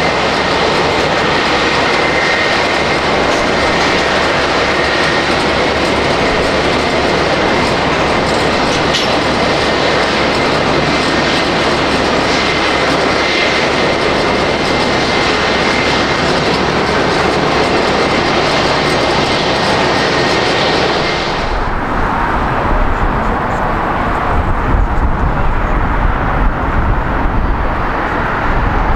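Jet airliner engines close by: loud, even rushing noise with a steady high whine. About 21 seconds in the sound changes suddenly, the hiss falling away and a deep low rumble taking over.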